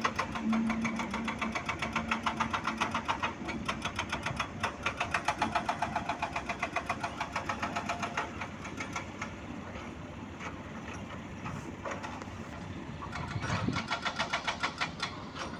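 Truck engine running with a fast, even knocking pulse, quieter in the middle and louder again near the end.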